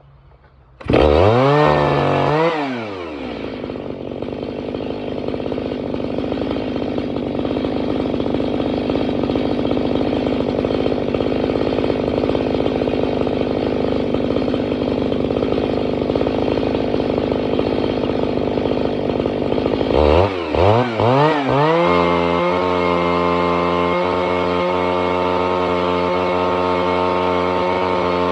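Kioritz CSG-673VC two-stroke engine cutter starting about a second in and revving up and down. It runs fast and steady, then after a few blips of the throttle about two-thirds through settles to a steady idle.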